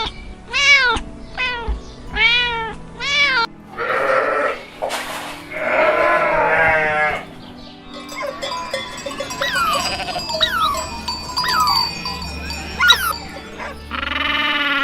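A string of animal calls. First come short calls that rise and fall in pitch, about two a second. Then longer calls follow around the middle, and near the end a run of quick, high, downward-sweeping chirps.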